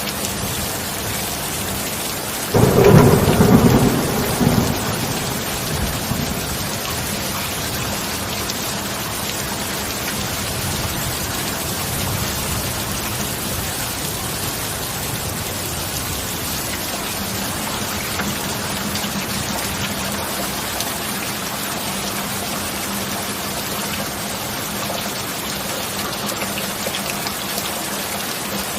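Steady heavy rain with one sudden, loud clap of thunder about two and a half seconds in, rumbling away over the next couple of seconds before the rain carries on alone.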